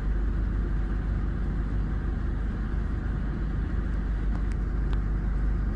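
Steady low rumble of the Karakoram Express, a passenger train, running away down the line just after it has passed, with a few faint clicks about four to five seconds in.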